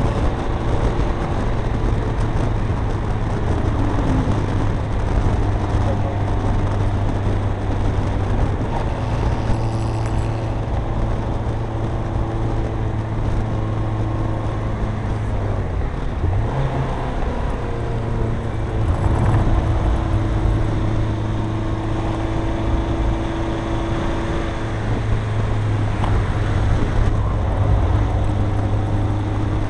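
Renault Kangoo's 64-hp diesel engine pulling steadily at speed, heard from inside the cabin over road and wind noise. The engine note drops and climbs back once, about halfway through.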